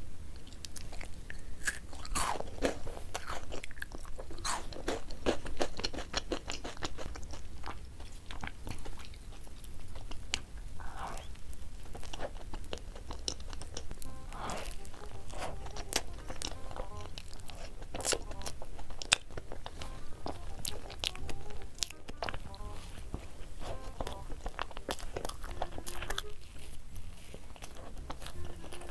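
Close-miked mukbang eating of chocolate treats: repeated crisp crunching bites and chewing, many sharp cracks in quick succession.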